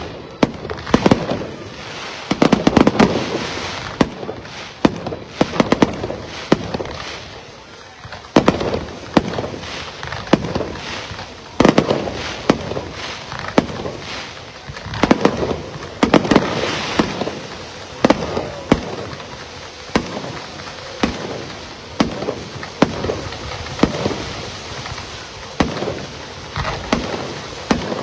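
A long, irregular run of sharp bangs and crackles, at times several a second, each followed by a short ringing echo.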